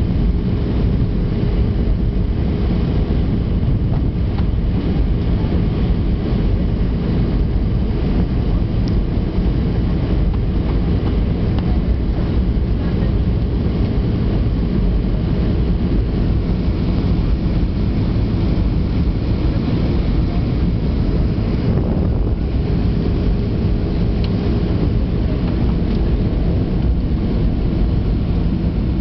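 Steady cabin noise inside an Airbus A320-200: an even rumble of engines and airflow, with a faint steady hum.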